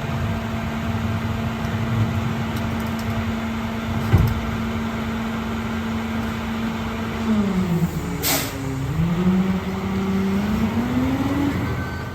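Heil DuraPack 5000 rear-loader garbage truck on a Peterbilt 520 chassis, its engine running at a steady speed, with a knock about four seconds in. From about seven seconds the engine note drops, then climbs steadily for several seconds, with a short sharp hiss of air as it bottoms out.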